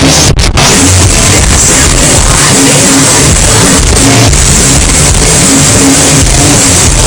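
Metalcore band playing live at full volume: heavy distorted guitars and drums. The full band comes in suddenly at the start after a quieter passage, and the recording is overloaded and distorted from being close to the stage.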